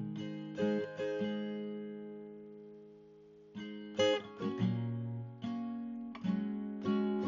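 Background music of acoustic guitar: slow strummed chords left to ring out, a lull, then quicker strums from about halfway through.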